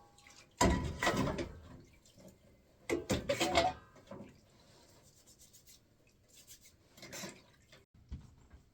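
Dried herbs rustling and crackling as they are rubbed and crumbled by hand, in two louder bursts in the first half and a fainter one near the end.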